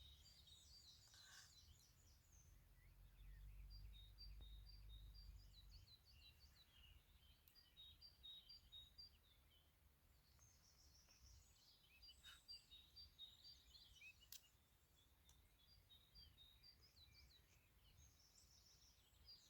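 Faint birdsong: small birds singing short, repeated high chirping phrases over quiet outdoor background, with a soft low rumble a few seconds in and a few faint clicks.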